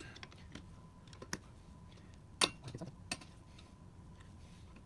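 Scattered clicks and knocks of hand tools and metal parts being handled, the loudest about two and a half seconds in.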